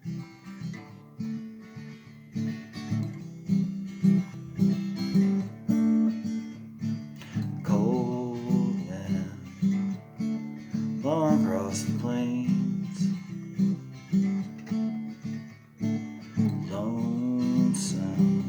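Strummed acoustic guitar playing a steady chord rhythm as a song intro, with a few sliding melodic phrases rising over it.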